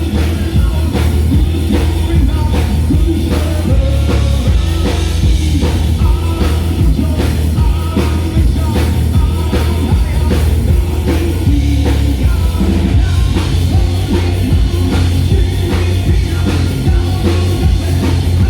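Live rock band playing loud, with a pounding drum kit and heavy bass and a voice singing over it.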